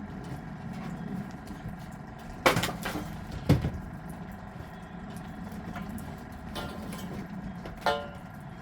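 Three sharp knocks over a steady low hum, the first two about a second apart and the third near the end with a brief metallic ring.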